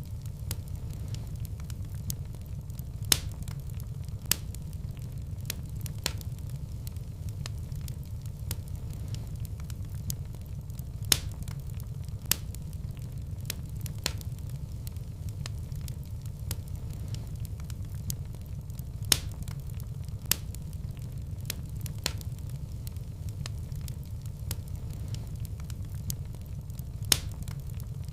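Wood fire burning in a fireplace: a steady low rumble of flame with irregular sharp crackles and pops of burning logs.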